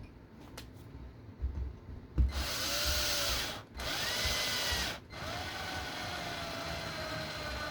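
Small cordless power driver running screws into an RC car chassis: three runs of the motor, the first two short and the third longer, each with a whine that bends in pitch as the screw tightens. A few light clicks come before the first run.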